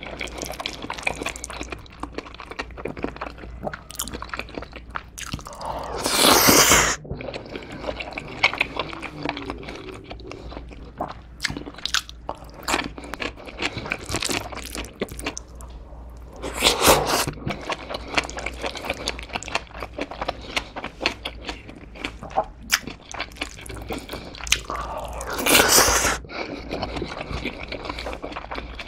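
Close-miked chewing of a mouthful of jajangmyeon (black-bean-sauce noodles), a steady stream of small wet mouth clicks and squelches, with three longer, louder bursts of mouth noise spread through.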